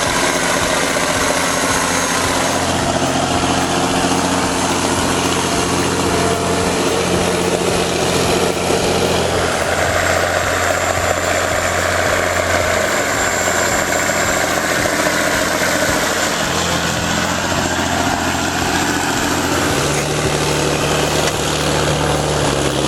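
Heavy vehicle engine running steadily with a low, even drone; its note shifts about halfway through and steps up near the end.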